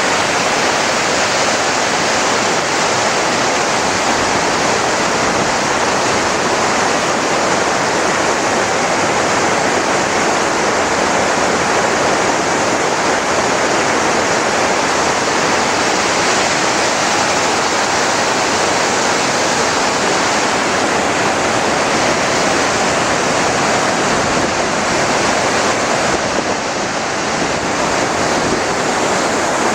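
Waterfall with water pouring down in a loud, steady rush that barely changes.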